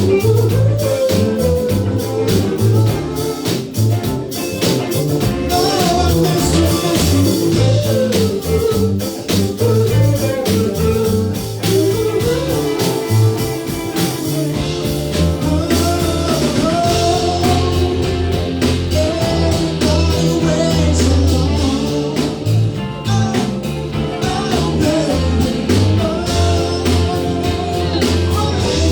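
Band playing a rock-and-soul cover song: a singer over guitar, bass line and drum kit keeping a steady beat.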